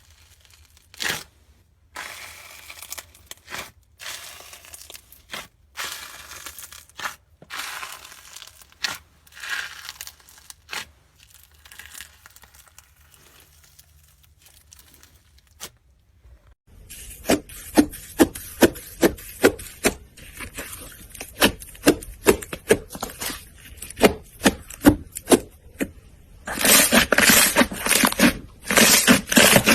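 Slime being handled: crackling and scraping as it is squished and stretched. About halfway through comes a quick run of sharp clicking pops, about three a second, and near the end dense, loud crackling.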